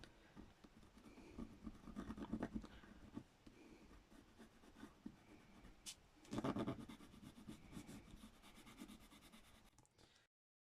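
Faint scratching and brushing on paper and card, with a louder rustle of handling about six and a half seconds in. The sound cuts out to dead silence just before the end.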